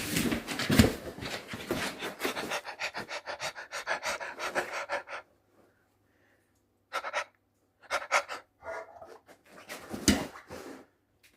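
A Labrador dog panting quickly and evenly; the panting stops about five seconds in, followed by a few short, separate sounds.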